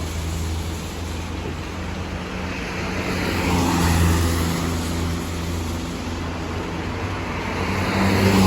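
Truck engine running steadily while driving, with road and tyre noise; the engine note swells a little about four seconds in and again near the end.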